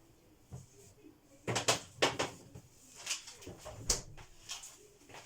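Kitchen handling noises: a run of short knocks and clatters as items and doors are moved while things are put away.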